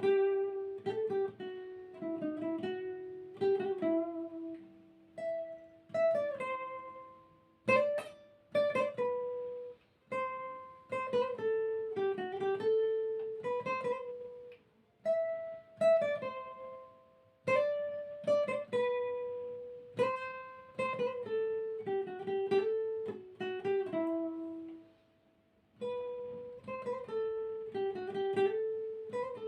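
Solo plucked string instrument playing an improvised melody of single picked notes that ring and fade, broken by a few sharp strummed chords and a short pause near the end.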